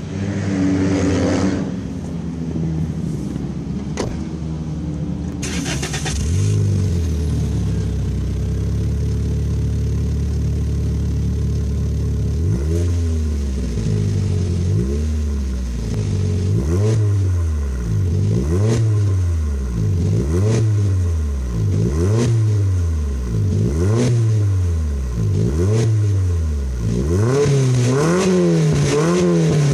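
Toyota Vitz exhaust through a GP Sports EXAS EVO Tune aftermarket muffler: the engine flares briefly as it starts, then idles steadily. From about twelve seconds in it is blipped about once a second, a dozen quick rises and falls in revs, then near the end it is held at higher, wavering revs.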